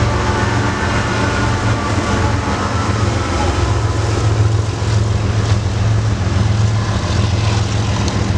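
Freight train diesel locomotive running, a steady loud low drone with a few higher tones fading out in the first seconds.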